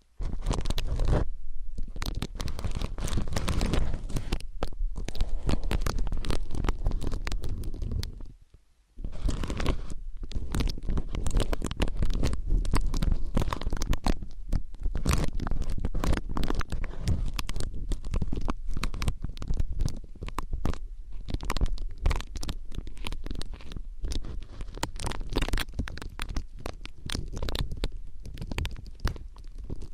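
Close-up ASMR ear-cleaning sounds: an ear pick scraping and scratching against a microphone ear, a dense run of crackly scrapes over a deep rumble. It stops briefly about eight and a half seconds in, then resumes.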